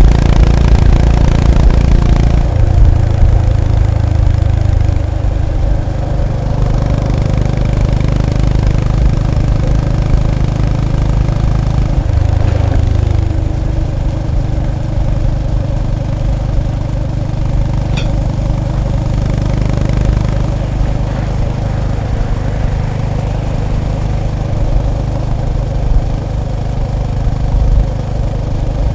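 Honda GB350S's single-cylinder engine running, louder for the first couple of seconds, then settling to a steady low idle. A brief rise in the engine note comes near the middle, and a single sharp click later on.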